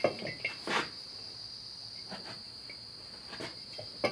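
A few light metal clinks and taps of disc harrow hardware (nut, washers, bolt) being handled, over a steady high-pitched trill of crickets.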